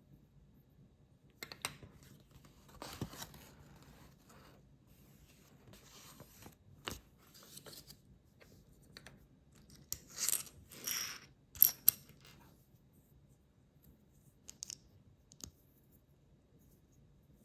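Small plastic building bricks being handled and pressed together: scattered clicks and short rustles of pieces, with two sharp snaps about twelve seconds in.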